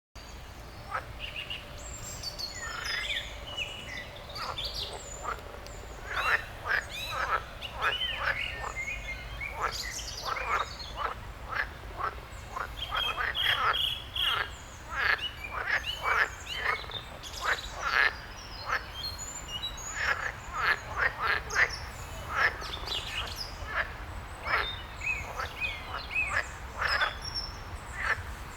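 A chorus of frogs croaking at a lake, many short calls overlapping and repeating, with birds chirping in the background. A low steady rumble runs underneath.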